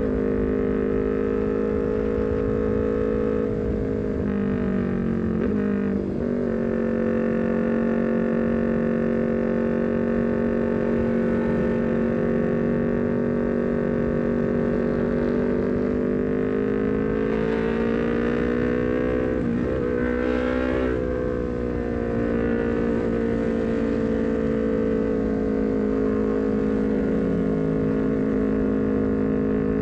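Honda CBR250RR parallel-twin engine at a steady high cruise through a full-system R9 header and a short Leovince GP Corsa carbon silencer, with wind rush on the microphone. The pitch drops briefly about four to six seconds in. Past the middle it climbs, then dips sharply twice, like quick gearshifts.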